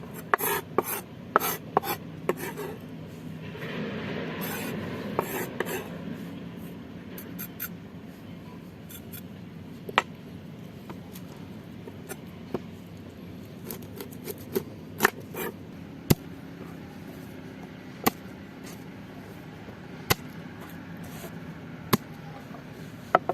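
Food-preparation handling sounds: a burst of rubbing or scraping with several sharp knocks in the first few seconds, then single sharp knocks every second or two.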